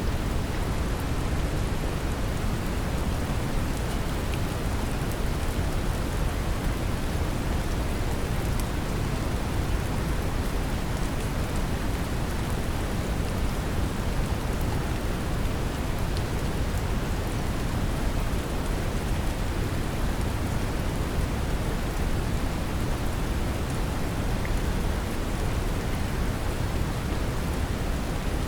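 Steady brown noise, a deep even rumble, mixed with the patter of gentle rain.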